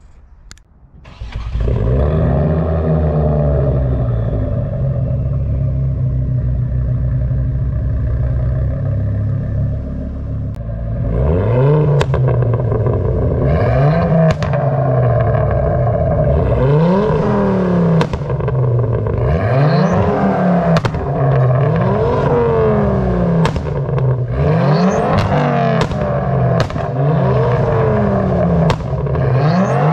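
Tuned Ford Focus ST's turbocharged 2.5-litre five-cylinder engine under way. It runs at a steady note at first; about a third of the way in it starts being revved hard again and again, the pitch climbing and falling back every second or two, with short sharp cracks in between.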